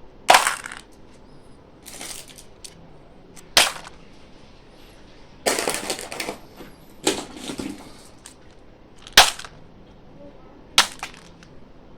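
Candy packaging being handled during unboxing: a series of sharp crinkles and crackles a second or two apart, a couple of them drawn out for about a second.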